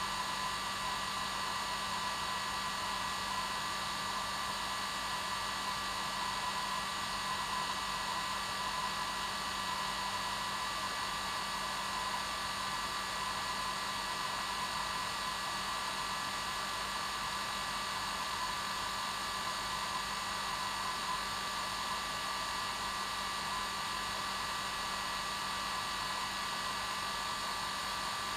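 Hair dryer running continuously at a steady speed: an even rushing airflow with a steady motor hum and whine.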